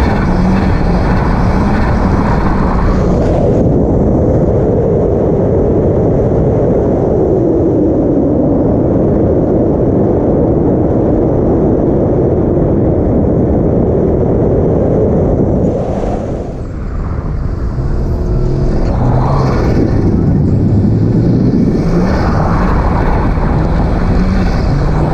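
A car engine running hard at high revs under heavy wind and road noise, with the pitch stepping and rising as the throttle changes. The noise eases about 16 seconds in, then the revs build up again.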